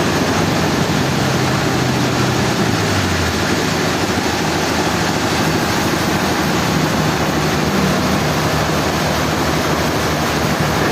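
Sawmill machinery running steadily: a continuous loud mechanical noise with a low engine hum underneath.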